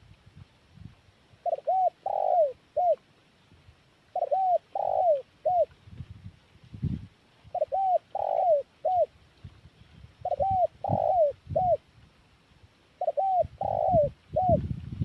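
Spotted dove (tekukur) cooing, as in a lure recording: a phrase of a few short coos with a longer falling coo in the middle, repeated about every three seconds, five times. Faint low thumps sound between some phrases.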